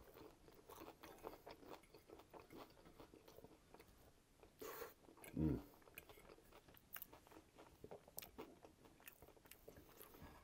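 Close-miked chewing of a mouthful of fries under chili-style Coney sauce, mouth closed: faint wet mouth clicks throughout. One louder short low sound, falling in pitch, comes about five seconds in.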